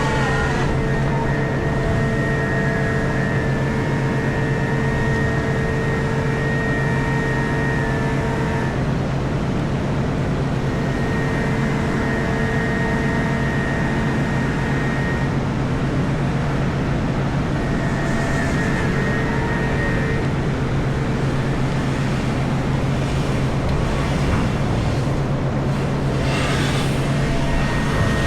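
Komatsu PC4000 mining excavator heard from inside its cab: a loud, steady drone of the machine at work, with higher whining tones that drop out and come back a few times, and two brief hissing surges in the second half.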